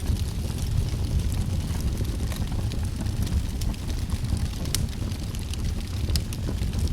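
Wood fire burning in a fireplace: a steady low rumble of flames with sharp crackles and pops scattered through, a few louder snaps near the end.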